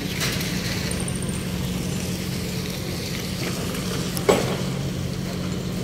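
Steady low engine hum with an even background noise, broken by one sharp knock a little past four seconds in.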